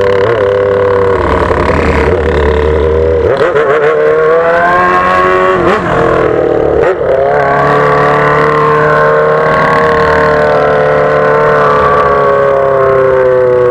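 Yamaha XJ6's inline-four engine on a straight-pipe exhaust with no muffler, heard from the rider's seat. The engine note climbs as the bike accelerates midway, breaks briefly twice as it changes gear, then holds a steady cruising note.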